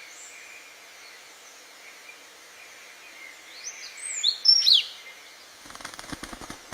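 A songbird sings one short phrase of quick sweeping notes about halfway through, over a faint steady high note from other birds or insects. A run of faint clicks comes near the end.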